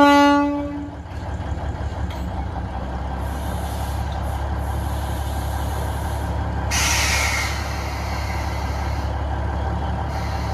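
Diesel locomotive horn sounding one short blast, then the locomotive's engine running steadily, with a burst of air hissing about seven seconds in.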